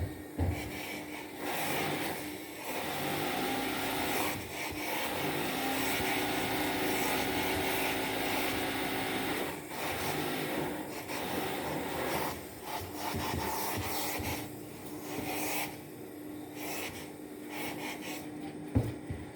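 Steam iron fed from a steam boiler, hissing in stretches of several seconds as it rubs across a T-shirt, over a steady low hum.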